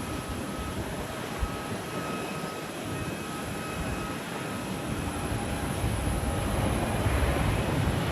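Jet airliner engines on landing approach: a steady rumble with a faint whine, growing louder over the last few seconds as the aircraft comes nearer.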